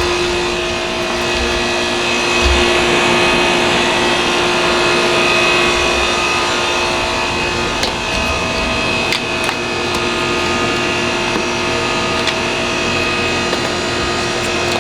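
Steady whirring hum of a small electric motor with a constant high whine, and a few light clicks about eight and nine seconds in.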